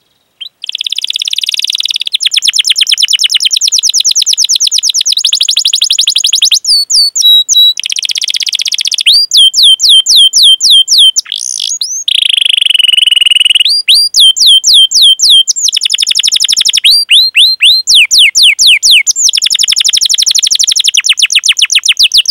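Canary singing a long song of fast rolling trills and runs of repeated sweeping 'cuit cuit' chirps, switching from one phrase to the next every second or two. It starts just after a brief break at the very beginning.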